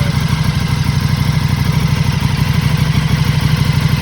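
KTM 1290 Super Duke RR's V-twin idling steadily through a Spark Konix Evo titanium exhaust, with a deep, even pulse. The engine is warming up at idle on the newly fitted exhaust.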